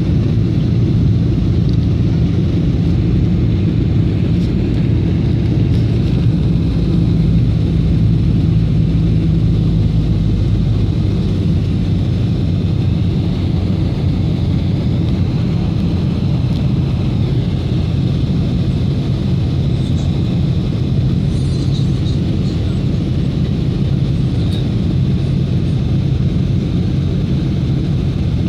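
Steady low rumble of a Boeing 747-400's jet engines running, holding constant without rising or falling.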